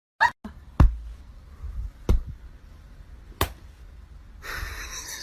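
Four sharp knocks, irregularly spaced over about three seconds, with a low rumble between them; about four seconds in, a steady hiss begins.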